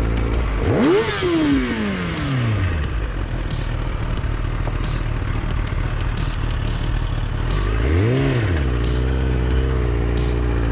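Motorcycle engine running steadily. It revs up and then falls away just under a second in, and is blipped briefly again about eight seconds in.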